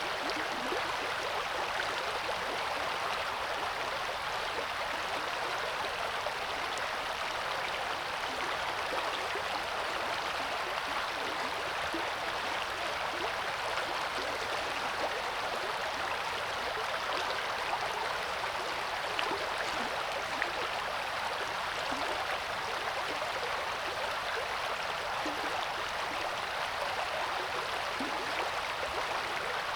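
River water flowing and babbling over rocks, a steady rushing with small gurgles.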